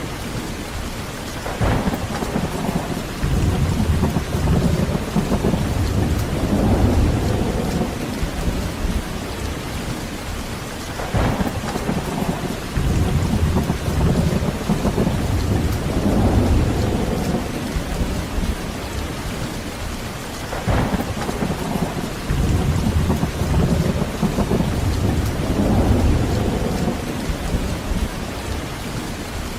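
Heavy steady rain with thunder: three sharp cracks about nine seconds apart, each followed by several seconds of low rolling rumble.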